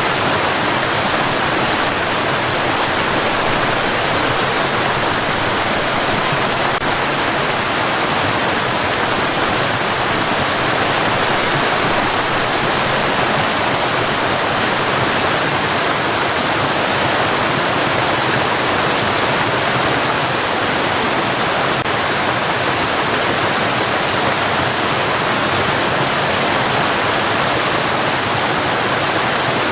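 Steady white noise: an even, unchanging hiss with no rhythm or separate sounds, softer at the very top and bottom of the range.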